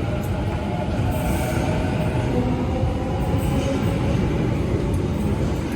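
Sydney Trains electric suburban train running past close by: a loud, steady rumble of wheels on rail with several steady whining tones over it.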